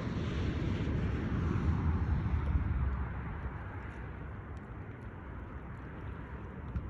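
Wind buffeting the microphone: a low, steady rumble that is strongest in the first three seconds, then eases.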